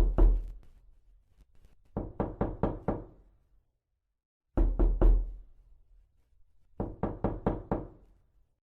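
Knocking sound effect: two heavy, booming knocks, then a run of five quicker raps, with the whole pattern played twice.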